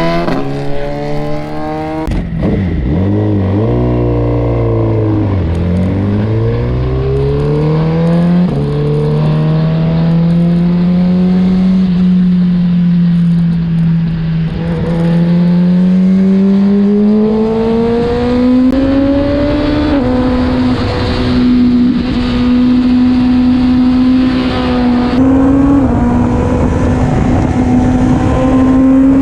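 Suzuki GSX-R1000 superbike's inline-four engine running steadily. Its pitch dips in the first few seconds, then climbs slowly as the bike gathers speed, with a couple of small steps along the way.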